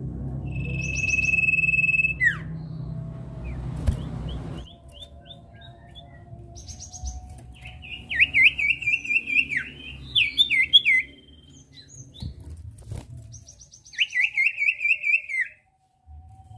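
Common iora (cipoh, 'sirtu') singing. A long steady whistle ends in a downward slur, followed by short high notes. Two runs of rapid rippling trills come near the middle and near the end, and a low rumble sits under the first few seconds.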